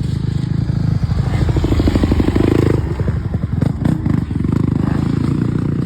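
Yamaha YZ250F four-stroke single-cylinder motocross engine revving. The revs rise to a peak a little before halfway, the throttle is chopped briefly a few times, and then the engine runs on steadily.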